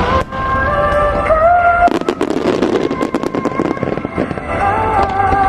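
Starmine fireworks going off in rapid volleys of sharp bangs and crackles, thickest about two to three seconds in, over music with a held melody played through loudspeakers.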